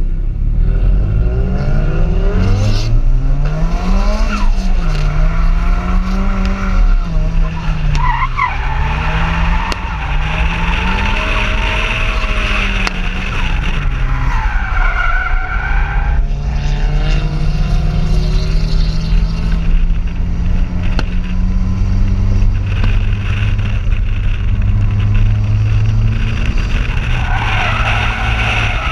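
Nissan 200SX S14 drift car's engine revving up and down hard through a run of drifts, then holding steadier revs, with tyres squealing at times.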